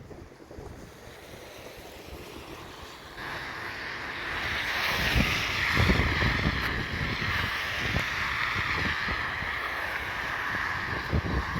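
Storm wind buffeting the microphone in uneven low gusts, joined about three seconds in by a louder, steady rushing hiss that holds to the end.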